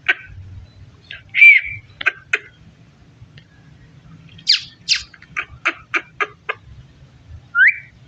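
Indian ringneck parakeet giving short, sharp squawks. The loudest comes a little over a second in, a quick run of about eight calls follows in the middle, and a rising call comes near the end.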